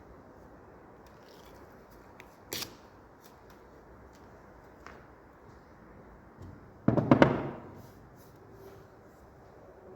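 Wooden pieces being handled and knocked together during assembly: a single sharp knock about two and a half seconds in, a few faint clicks, then a louder clatter of several knocks around seven seconds in.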